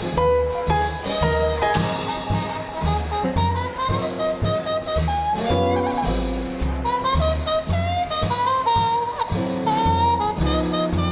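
Small swing band playing an instrumental chorus of a boogie-woogie tune, saxophone and trumpet lines over an even bass-and-drums beat about two pulses a second, with piano.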